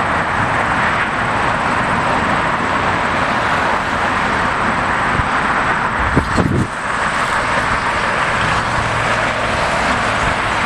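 Jet airliner engines running, a steady rushing noise that holds at one level, with a brief low bump about six seconds in.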